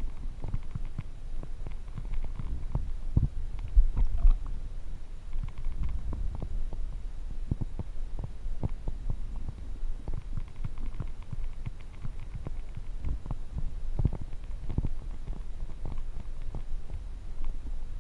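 Muffled, irregular low thumps and rumbling with scattered short knocks and faint clicks, the kind of sound water movement and handling make through an action camera's waterproof housing. The loudest thumps come about four seconds in.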